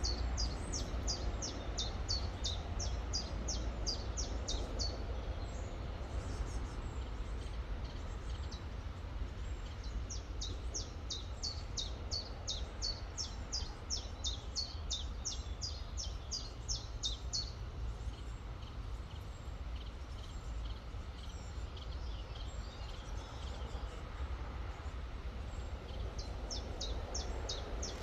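A songbird singing runs of quick, evenly spaced high chirps, about three a second, over the steady rush of a river. There are three runs: one at the start lasting about five seconds, a longer one from about ten seconds in, and a third beginning near the end.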